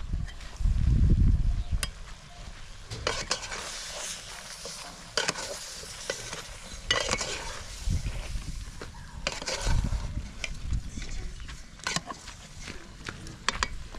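Food frying and sizzling in a cooking pot as it is stirred, with a utensil scraping and clicking against the pot in repeated bursts. A loud low rumble comes about a second in.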